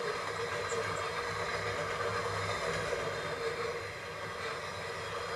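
Union Pacific freight train's cars rolling past close by, a steady rolling noise from the train on the track.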